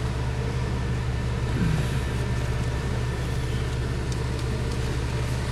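Car engine idling steadily, a low hum, with a brief falling tone about a second and a half in.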